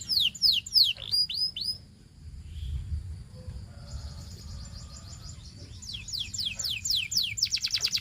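Canary singing: a run of quick, high, downward-sweeping whistled notes, a pause of a few seconds with only faint song, then more sweeps and, near the end, a fast rolling trill. A steady low rumble lies underneath.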